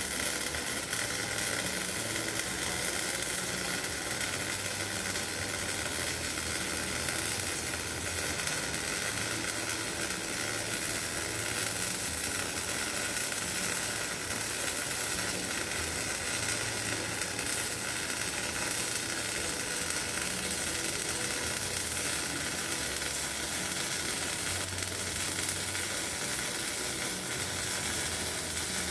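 MIG welding arc on steel pipe, a steady crackling sizzle that runs unbroken as the bead is laid.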